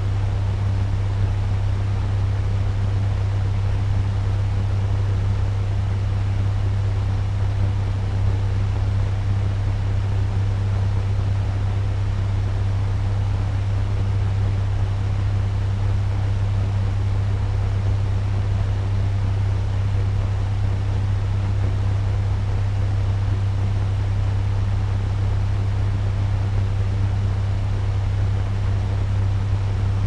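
Electric turbo fan running steadily at medium speed: an even rush of air over a strong, constant low motor hum.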